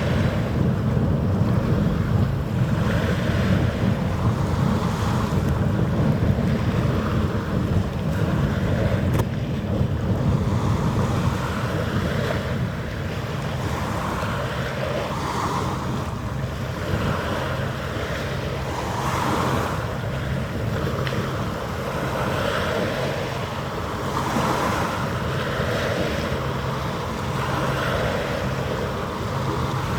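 Wind buffeting the microphone with a steady low rumble, over the wash of waves that swells and fades every couple of seconds.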